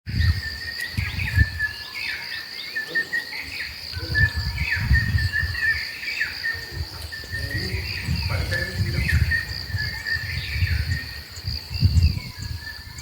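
Rainforest ambience: a steady high-pitched drone of insects with repeated short chirping bird calls over it, and intermittent low rumbles.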